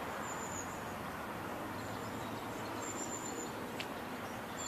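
Steady outdoor background noise with a small bird's thin, very high-pitched calls repeating several times, and a single sharp click near the end.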